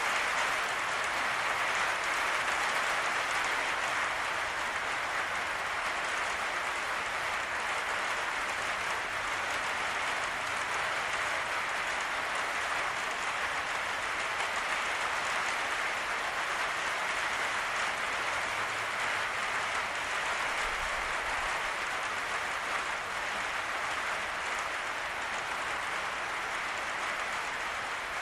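Rain falling steadily on a patio roof, an even hiss.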